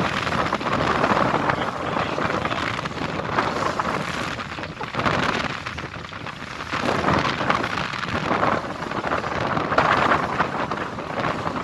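Wind buffeting the microphone on a small boat out on open water, a loud rushing noise that swells and eases in gusts.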